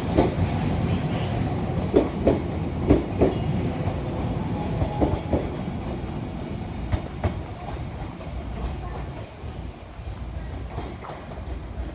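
JR East E655 series train pulling out of the station, its wheels clacking over rail joints in pairs over a low running rumble. The clacks come a second or two apart and the sound fades away over the last few seconds as the train recedes.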